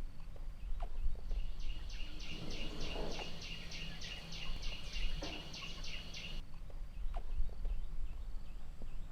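A bird calling in a fast rhythmic series of high chirps, about four a second, for some five seconds, then cutting off abruptly. Fainter chirps follow over a low outdoor rumble.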